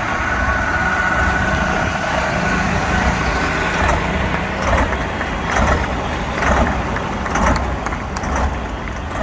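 Big engine of a competition pulling tractor running steadily, with a high, even whine over it that fades about four seconds in. After that, short irregular bursts of noise break in over the engine.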